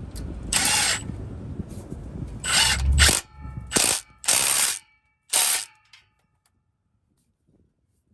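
Ratchet wrench clicking in about five short bursts, tightening the clamps of a new catback exhaust.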